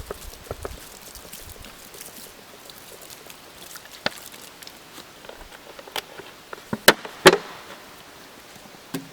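Several sharp knocks and clicks, one about four seconds in, another at six and the two loudest together a little before and after seven seconds, over a faint steady outdoor background.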